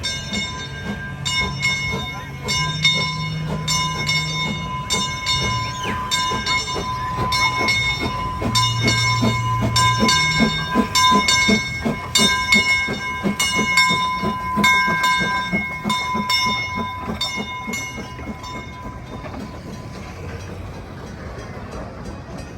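Narrow-gauge train with its locomotive bell ringing, struck about every three-quarters of a second, over a quick rhythmic beat from the running train. The ringing fades out about 18 seconds in.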